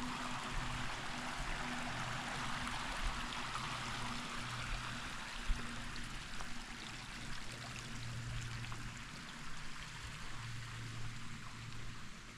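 Creek water flowing over rocks, a steady rush that grows fainter near the end.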